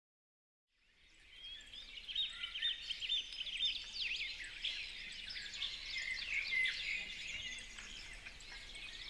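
Birdsong fading in about a second in: several small birds chirping and trilling at once, with quick overlapping calls and short up-and-down whistles.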